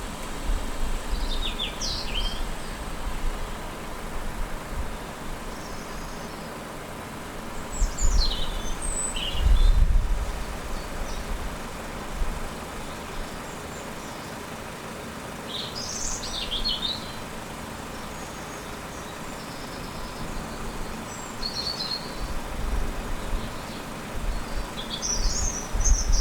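Small birds chirping in about five short, separate phrases over a steady outdoor background, with two low rumbles, one about a third of the way in and one near the end.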